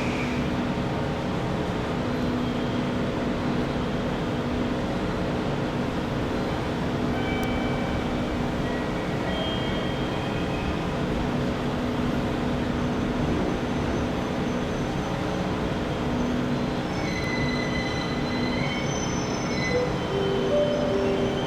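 JR 211 series electric train pulling into a station and braking, with a steady running hum. Short high-pitched brake and wheel squeals come and go, growing more frequent near the end as it slows to a stop.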